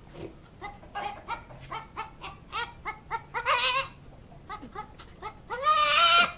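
Goat calling in runs of short, clucking notes like a hen's cackle, about three to four a second, with a longer call about halfway through and a long, loud bleat near the end.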